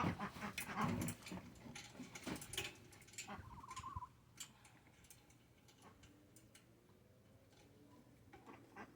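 Chickens in the yard: scattered light clicks and taps through the first few seconds, and one short warbling trill about three and a half seconds in, then only faint background.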